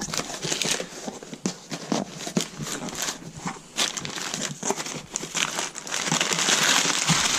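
Packing material crinkling and rustling as a shipped box of car-care products is unpacked, in a run of short crackles that thicken into a dense, continuous rustle near the end.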